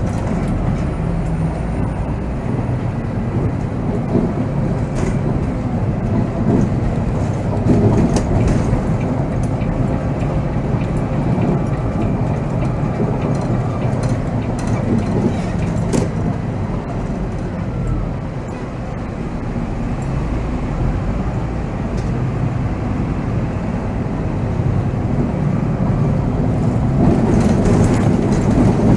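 Volvo B7R coach's six-cylinder diesel engine running with road noise as the coach drives along, heard from the driver's seat; a steady low rumble with occasional small rattles, easing slightly about two-thirds of the way through.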